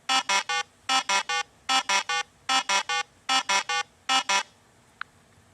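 Dog barking in quick, evenly spaced sets of three, six sets in all, the last one cut short to two barks.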